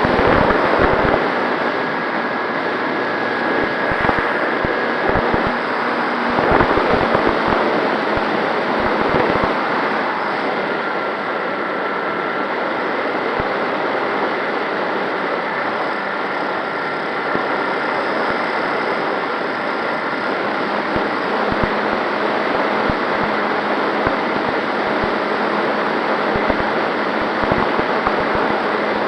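Onboard sound from a radio-controlled MX2 model plane in flight: a steady rush of air over the camera's microphone, with low buffeting and a faint motor and propeller whine.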